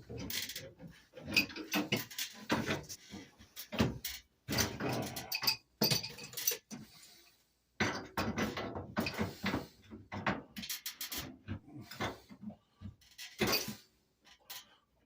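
Irregular metallic clinks, knocks and rattles of plumbing fittings and tools being handled.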